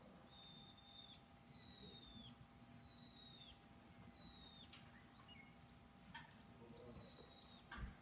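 Faint bird song: a series of drawn-out whistled notes, each sliding slowly down in pitch and ending in a quick drop, about one a second, with a few soft knocks near the end.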